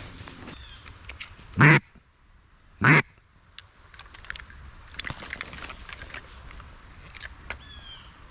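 Two loud duck quacks about a second and a half apart, followed by scattered faint chirps and clicks and a short rising call near the end.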